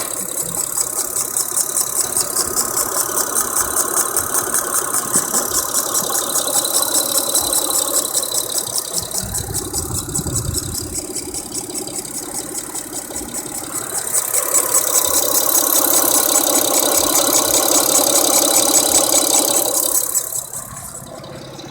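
Fourth-generation Mitsubishi Eclipse engine running with a fast, even ticking rattle over the engine note, which the owner thinks sounds like a leak. It grows louder about two-thirds of the way through, then drops away sharply near the end.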